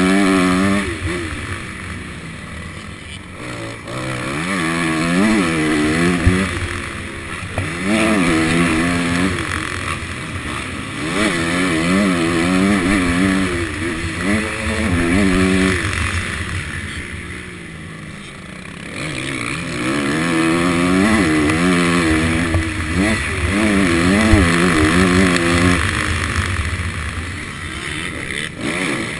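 Honda CRF250 four-stroke single-cylinder motocross engine revving hard through the gears: pitch climbs in short rising steps, drops at each shift, then climbs again, with two quieter off-throttle stretches, one near the start and one about midway. Wind rushes over the helmet camera.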